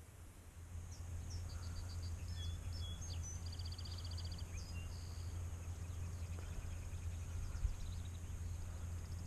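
Small birds chirping and trilling in short high phrases, over a steady low rumble.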